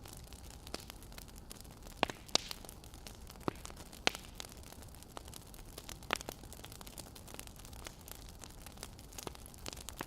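Wood fire crackling: irregular sharp pops and snaps over a steady hiss, with a few louder snaps.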